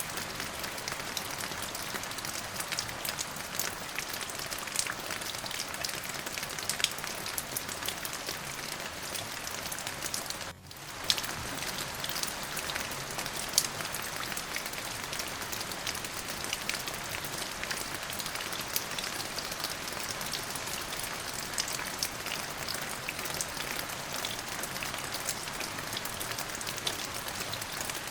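Steady rain falling, with many individual drops ticking sharply through the even hiss. The sound dips out for a split second about ten and a half seconds in, then resumes as before.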